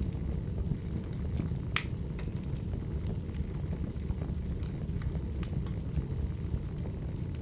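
Wood fire burning: a steady low rumble with scattered sharp crackles and pops from the logs, the loudest about two seconds in.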